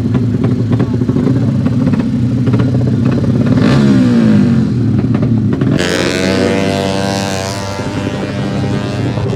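Motocross bike engines running steadily; about six seconds in, one bike comes by close under throttle, its note loud and bright and its pitch sliding down as it passes.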